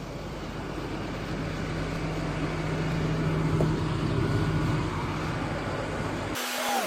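Box truck engine idling: a steady hum with an even noise, growing slightly louder, broken off abruptly near the end by an edit.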